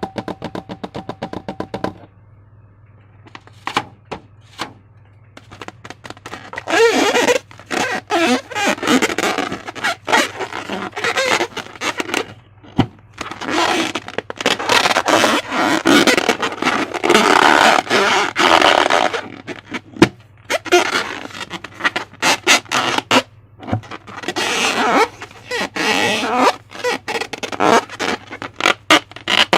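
Slime being squished and stretched by hand, with wet crackling and squelching in bursts of a few seconds. A low steady hum runs underneath.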